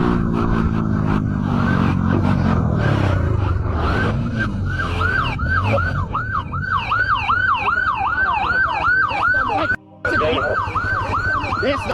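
Police siren yelping in fast repeated sweeps, about three a second, at the start of a pursuit. Over the first few seconds a vehicle engine drops in pitch as it slows, before the siren takes over. The sound cuts out briefly near the end.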